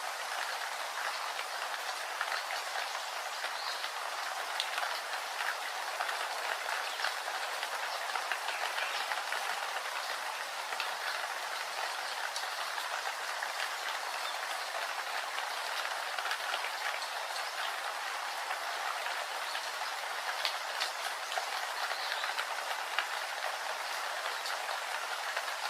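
Steady rain falling, a dense even hiss with fine scattered drop ticks.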